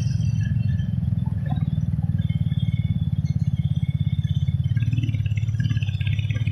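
Motorcycle engine running steadily under way, a low, fast, even pulsing of its firing strokes.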